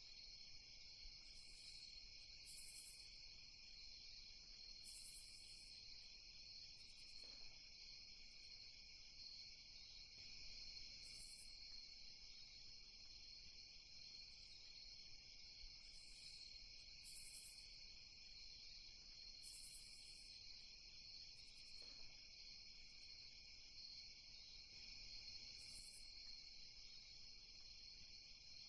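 Faint night ambience of crickets: a steady, dense high-pitched chirping chorus, with short, even higher trills breaking in every few seconds.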